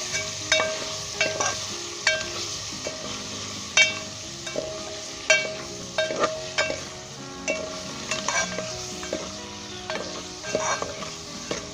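Chicken with spices and tomatoes sizzling in hot ghee in a cooking pot as it is stirred and fried (bhuna), with a utensil knocking and scraping against the pot at irregular intervals.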